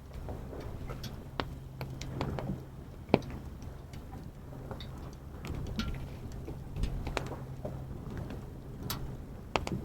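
Wood fire crackling, with sharp pops at irregular intervals and a louder pop about three seconds in, over a low steady rumble.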